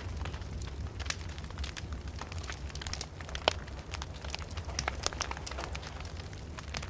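Fire burning in a fireplace, crackling with frequent sharp pops over a steady low rumble; the loudest pop comes about three and a half seconds in.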